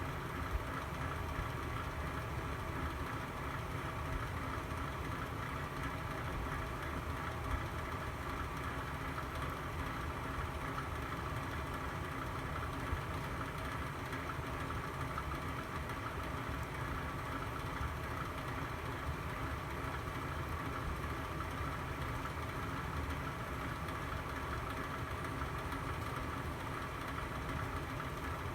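Fire burning in a fireplace: a steady low rumble and hiss, with a few sharp pops, one near the start and others at about 7 and 13 seconds.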